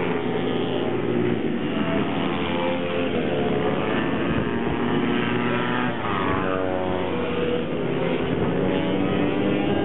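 Several small racing minibike engines running hard at once, their overlapping notes rising and falling as the riders accelerate and shift.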